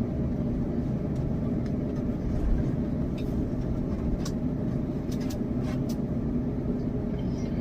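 Airbus A350 cabin rumble as the airliner rolls along the ground after landing, steady and low, with scattered light clicks and rattles from the cabin fittings.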